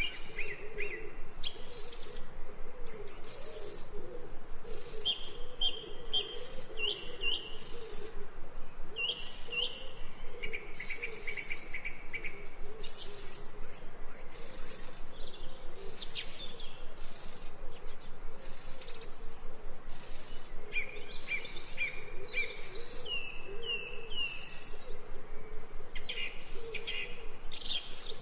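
Ambient recording of songbirds chirping: many short chirps and quick trills from several birds, overlapping, over a continuous lower warbling murmur.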